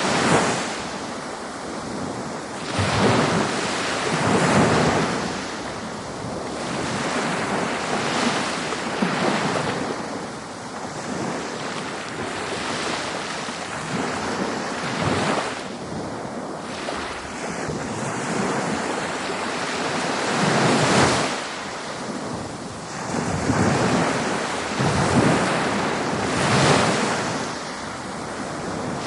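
Ocean waves breaking and washing up a beach: a continuous rush of surf that swells and recedes every few seconds.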